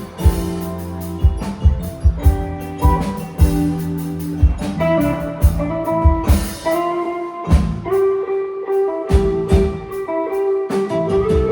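A live band playing an instrumental passage on guitars, bass, keyboard and drum kit. About eight seconds in the bass drops out for a couple of seconds while a held note rings over the drum hits.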